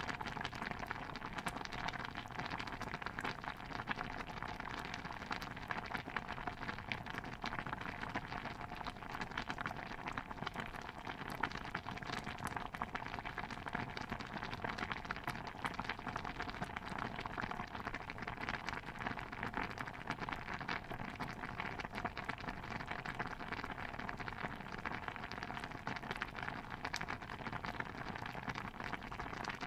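A pot of stew bubbling steadily, a dense unbroken patter of small pops.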